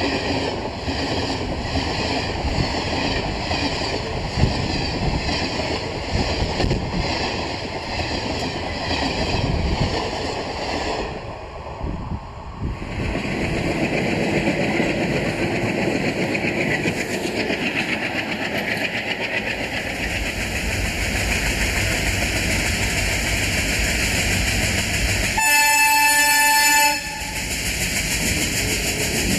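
Passenger coaches rushing past at speed, their wheels clicking rhythmically over the rail joints. After a short break comes the steady running of an ALCO diesel locomotive, which sounds its horn loudly for about a second and a half near the end.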